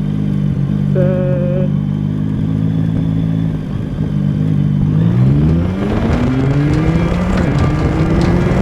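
Yamaha MT-09's three-cylinder engine with an Akrapovic exhaust, running steadily at low speed, then accelerating hard from about 10 mph, its pitch climbing, dropping at a gear change and climbing again, with wind rush building as speed rises.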